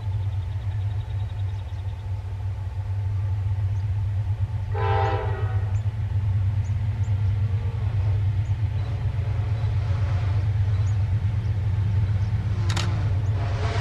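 Train locomotive passing with a steady low rumble. It sounds its horn in a short blast about five seconds in, and again near the end.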